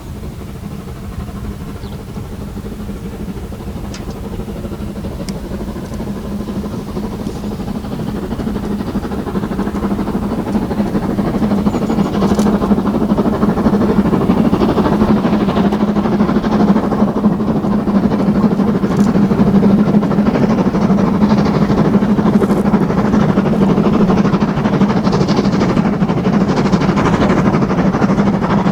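A steam-hauled train approaching, its steady mechanical noise growing gradually louder.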